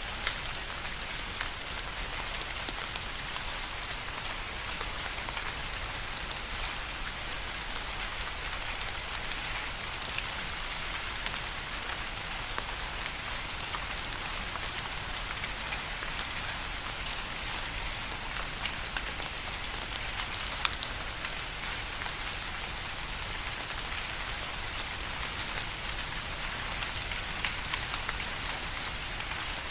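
Steady rain falling, a constant hiss with many individual drops pattering and ticking through it, now and then one louder drop.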